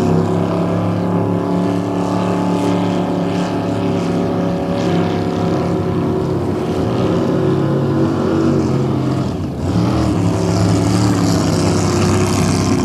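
Racing motorboat engine running loud and steady, a dense stack of engine tones, with a brief dip in level about nine and a half seconds in.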